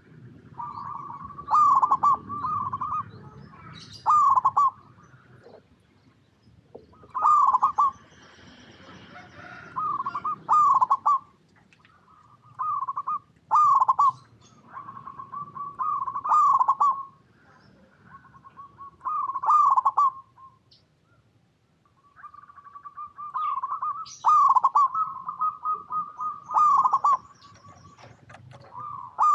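Zebra doves cooing: short phrases of quick, staccato coo notes, each note dipping in pitch, repeating every second or two with a few brief pauses.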